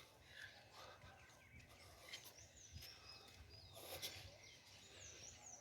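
Faint outdoor ambience with a few scattered high-pitched bird chirps.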